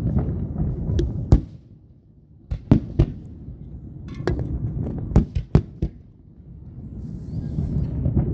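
Aerial fireworks going off: a low rolling rumble of shell bursts broken by a string of sharp bangs and cracks, several in quick succession in the first six seconds, with a brief hiss from a burst near the end.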